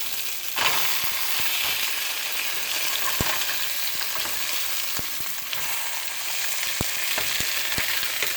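Breaded steak frying in hot oil in a pan, a steady sizzle with scattered pops and crackles, growing louder about half a second in after being turned over.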